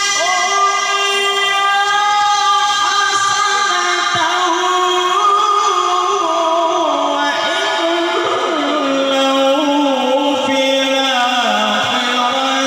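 A voice singing long, unbroken melismatic notes that bend slowly up and down in pitch, settling lower in the second half.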